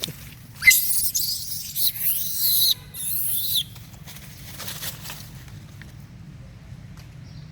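Shrill, high-pitched animal squealing in two stretches lasting about three seconds in all, starting under a second in.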